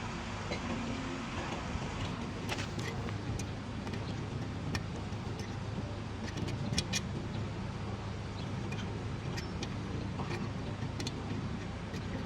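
A steady low mechanical rumble with scattered sharp metallic clinks, several of them close together about two thirds of the way through.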